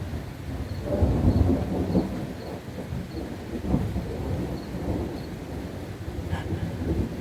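Rolling thunder, a low rumble that swells about a second in and keeps surging and fading unevenly.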